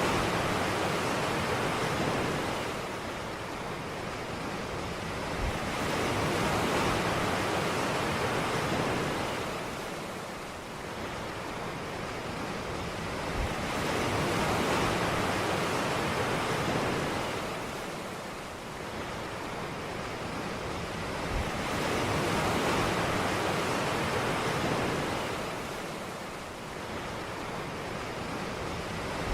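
Ocean waves breaking on a beach: a steady rush of surf that swells and ebbs in slow surges about every eight seconds.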